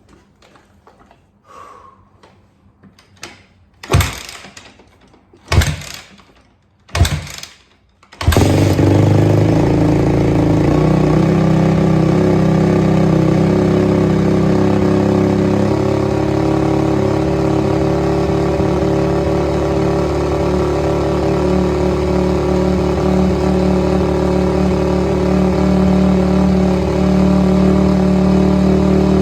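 2004 Honda CRF250R's single-cylinder four-stroke engine being cold-started: three short bursts as it is kicked over without catching, then it fires about eight seconds in and keeps running steadily.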